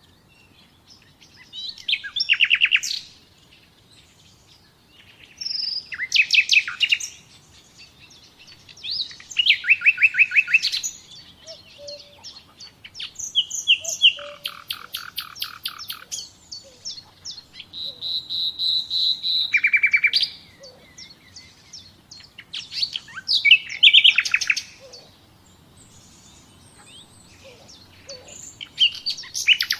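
Songbird singing: short phrases of rapid, repeated high notes, one every three to four seconds, with brief pauses between them.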